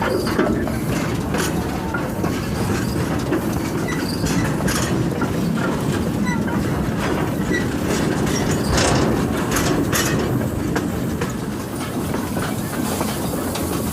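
A train ride heard from aboard the carriage: a steady rumble of the coach rolling along the track, with irregular clicks of the wheels over the rail joints.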